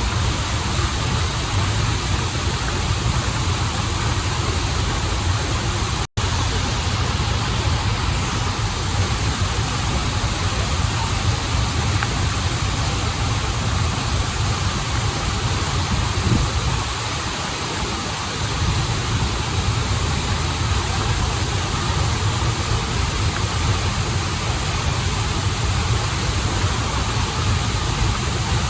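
Flowing water of a stream and small waterfall rushing steadily, with a deep low rumble under the hiss. It cuts out for an instant about six seconds in.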